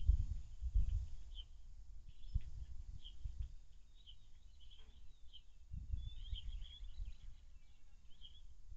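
Small birds chirping in short, scattered calls, busiest past the middle, over an irregular low rumbling noise.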